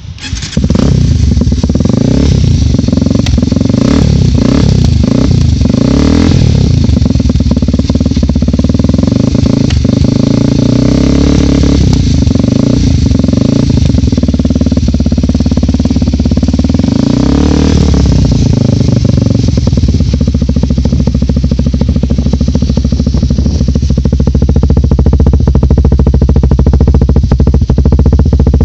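Yamaha TT-R250 single-cylinder four-stroke engine running through a Chinese-made aftermarket exhaust. The throttle is blipped several times in quick succession at first and twice more later, each rev rising and falling back, then the engine settles into a steady idle.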